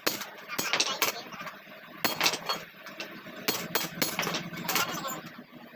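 Hand tools clinking and tapping on metal parts: about a dozen sharp, irregular strikes.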